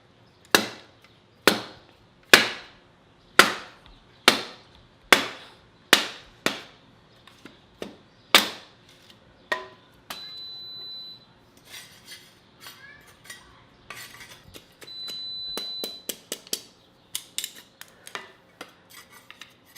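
A hammer striking hard about ten times, roughly once a second, each blow ringing briefly. This is followed by lighter clicks and taps and two short, steady high whines.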